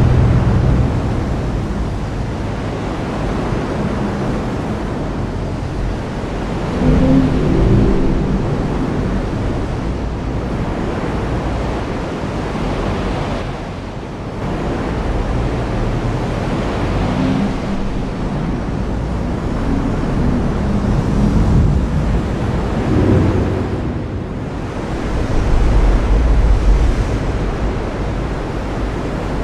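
Heavy rain falling in a steady hiss, with thunder rumbling low several times; the deepest, loudest roll comes near the end.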